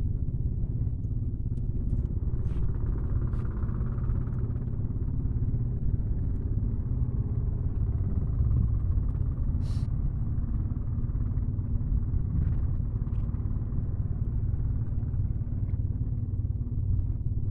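Strong wind buffeting the microphone as a steady low rumble, with a few faint clicks.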